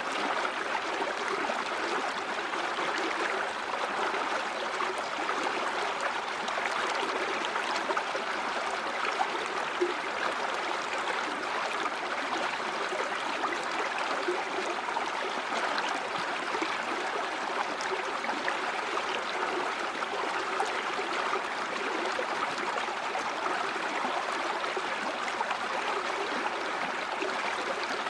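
A stream of water flowing steadily, with a constant rushing and gurgling.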